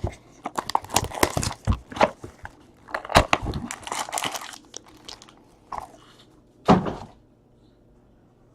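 Trading card packaging being handled and opened: plastic wrap and cardboard crinkling and tearing in quick crackles, with one louder knock about seven seconds in.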